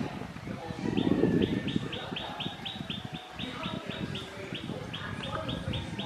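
A bird calling with a rapid run of short, identical high chirps, about four a second, starting about a second and a half in. Under it a low rumbling noise comes and goes, loudest about a second in.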